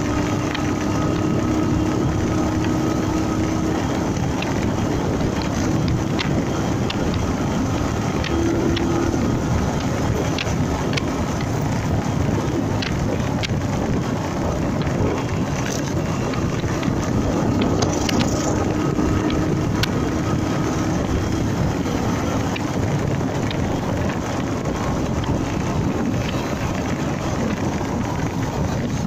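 Honda MegaPro Primus motorcycle's single-cylinder engine running under way, with wind buffeting the microphone and road noise.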